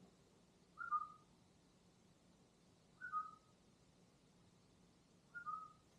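A person whistling a short two-note call, a higher note stepping down to a lower one, three times about two seconds apart: a falconer's whistle calling a red-tailed hawk to the glove for food.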